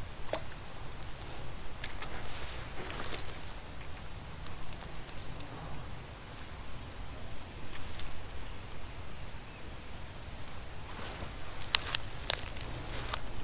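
A small songbird repeating a short, rapid run of thin high notes about five times, over a low outdoor rumble. A few sharp clicks and rustles come in between, the loudest near the end.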